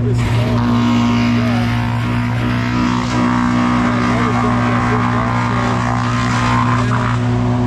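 An engine running steadily at constant speed, with a faint voice under it.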